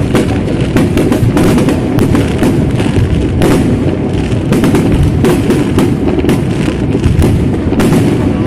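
Aerial firework shells bursting in rapid succession: a loud, unbroken run of bangs and crackling over a constant low rumble.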